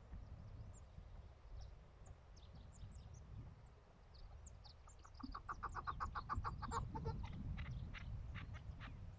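Chukar partridge calling: a fast, even run of clucks begins about five seconds in and slows into spaced notes near the end. Small birds chirp high throughout, over a low rumble.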